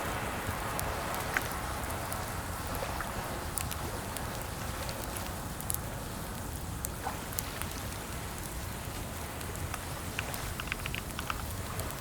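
Computer keyboard typing in scattered clicks, with a quick run of keystrokes near the end, over a steady background hiss.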